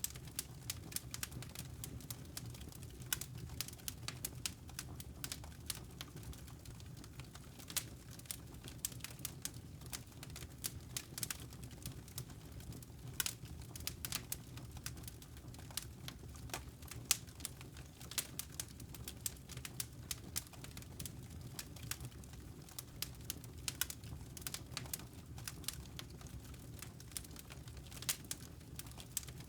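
Wood fire crackling in a fireplace: irregular sharp snaps and pops, several a second at uneven spacing, over a steady low rumble.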